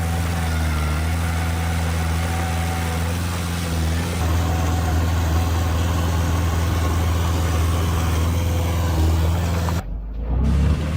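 Heavy diesel engine of earthmoving machinery running steadily, with a brief dropout near the end.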